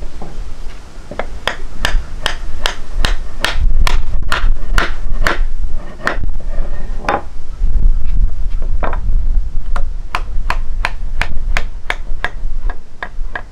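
Sharp knocks repeated in a steady rhythm, about two and a half a second, pausing briefly in the middle, over a steady low rumble.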